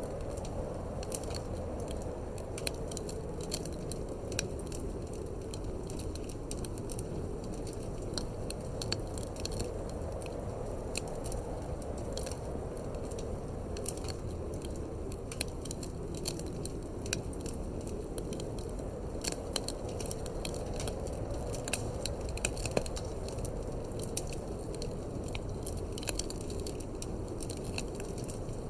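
Wood fire crackling in a fireplace, with many small sharp pops and snaps coming irregularly, over a steady low rush of wind.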